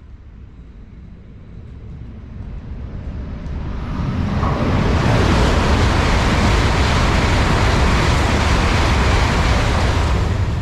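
Shinkansen bullet train passing at high speed: a rushing roar of air and rail noise that swells over a couple of seconds, then holds loud.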